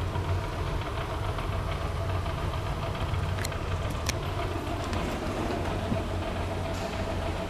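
Steady low mechanical hum with a faint steady higher tone over it, and two sharp clicks around the middle.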